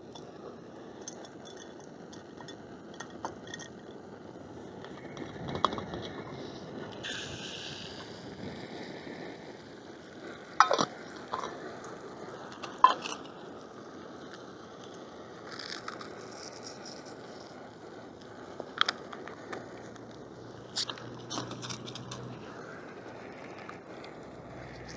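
Eggs frying in a small pan on a camp stove: a steady hiss, broken by several sharp clinks and scrapes of a utensil against the pan, two of the loudest about two seconds apart near the middle.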